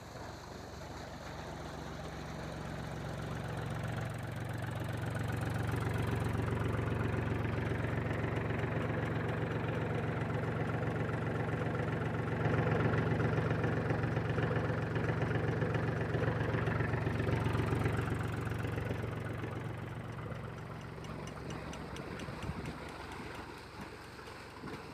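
Tractor engine running steadily while driving a PTO water pump. It grows louder over the first several seconds, holds steady, then drops off near the end.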